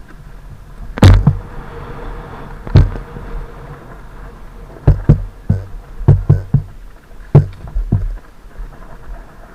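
About a dozen sharp, irregular knocks and thumps as a dirt bike and its mounted camera jolt over rough ground, over a low steady rumble.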